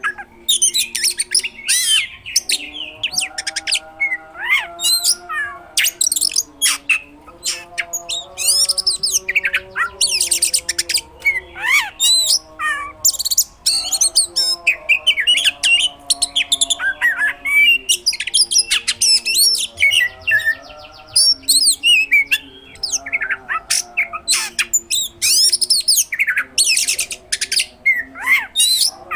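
Oriental magpie-robin (kacer) singing non-stop in full 'gacor' form: a dense stream of sharp, shrill whistles, quick rising and falling sweeps and harsh chattering notes, packed with mimicked phrases.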